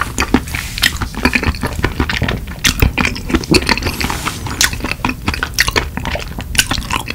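Close-miked chewing of a mouthful of curry rice: a steady run of wet, irregular smacks and clicks from the mouth.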